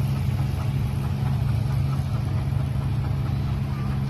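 An engine running steadily with an even, low rumble.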